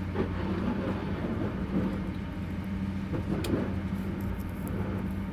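Airliner cabin during de-icing: a steady low hum from the aircraft under a rushing, rain-like spatter of de-icing fluid spray against the fuselage, with scattered small ticks.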